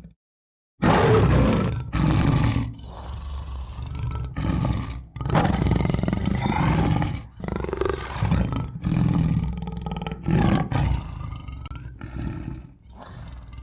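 A large wild animal roaring: a series of loud, rough roars with short breaks between them, starting about a second in after a brief silence.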